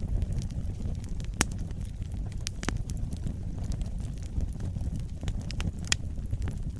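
Wood fire burning: a steady low rumble with scattered sharp crackles and pops, the loudest about a second and a half in and again near six seconds.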